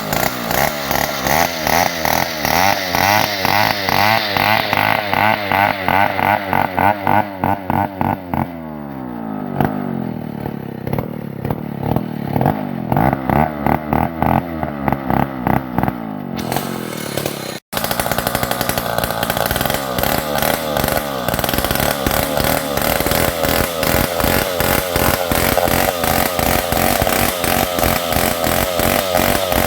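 New West 707 two-stroke chainsaw ripping lengthwise through a hard ulin ironwood log at full throttle. About 8 s in, the engine's pitch falls and it runs slower for several seconds. After a sudden break it is back at full speed, cutting.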